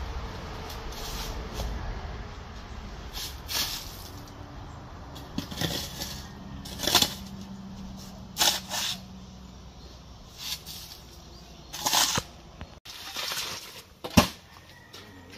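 Irregular knocks and clatter of wooden formwork boards being knocked and pulled off cast concrete columns, with the sharpest knock about a second before the end.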